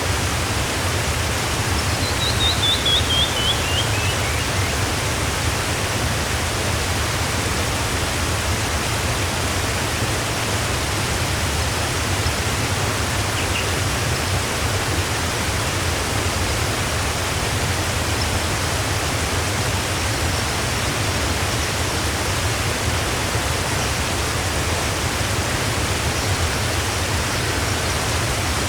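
Waterfall rushing steadily. About two seconds in, a bird sings a run of short notes that step down in pitch over about three seconds, and a single brief bird note comes near the middle.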